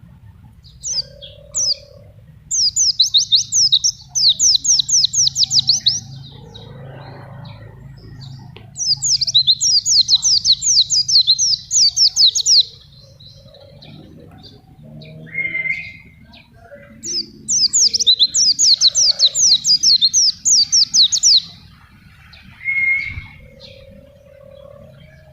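Pleci (white-eye) singing: three loud bouts of rapid, high, down-slurred notes, each lasting a few seconds, with scattered short chirps between them.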